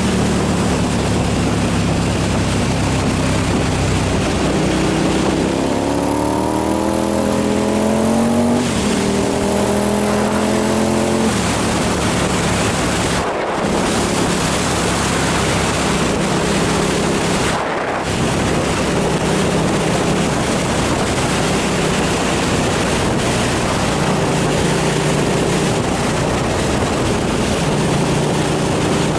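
KTM 990 SMR's V-twin engine under way, climbing in pitch twice with a gear change between about six and eleven seconds in. It then holds a steady cruise with two brief dips. Heavy wind rush on the microphone runs over it.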